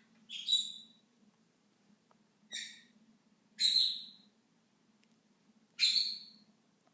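Pet bird calling from inside a shoe: four short calls, a second or two apart.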